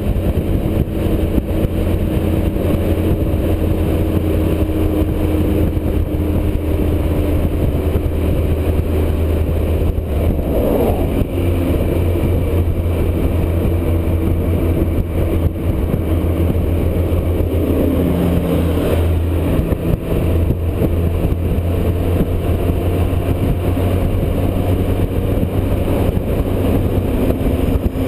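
Motorcycle engine running steadily at highway cruising speed, its pitch shifting a little a couple of times, under heavy wind noise.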